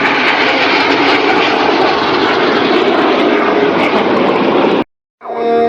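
Aircraft engine noise, a loud steady rush, that cuts off abruptly near the end. Music begins a moment later.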